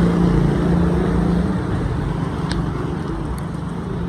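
Street traffic on a wet road: a car's engine hum with the hiss of tyres on wet tarmac, the hum strongest in the first second and a half.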